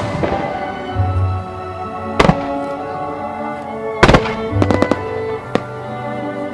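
Fireworks bursting in a musical starmine display over a playing music track. There is a sharp bang at the start and another about two seconds in, then a cluster of several quick cracks from about four to five and a half seconds in.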